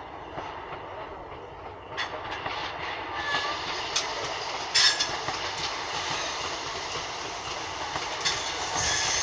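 Locomotive-hauled passenger train (Class 90 electric with coaches) pulling out, its wheels clattering over rail joints and pointwork as it rolls past and grows louder, with several sharp knocks.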